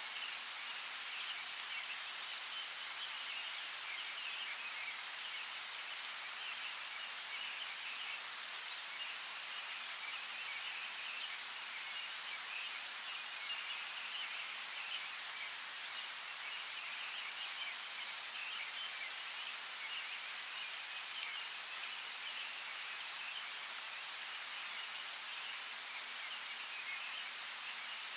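Steady rain hissing, with small birds chirping in a continuous high twitter and a few single drops ticking now and then.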